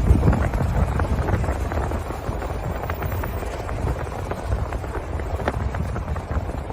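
Strong wind buffeting the microphone with a heavy low rumble, loudest about the first second and easing off a little, with scattered faint knocks.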